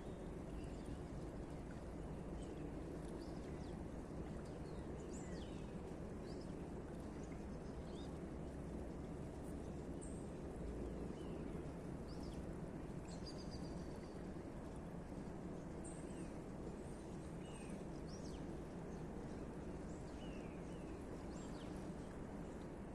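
Small birds chirping now and then, short high calls scattered through, over a steady low outdoor background noise.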